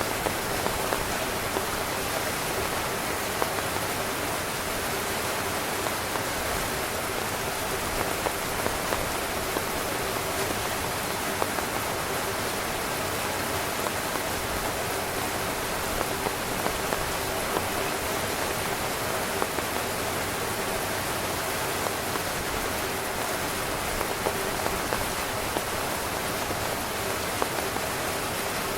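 Steady heavy rain falling on a tent: a constant hiss with scattered louder taps of individual drops hitting the fabric.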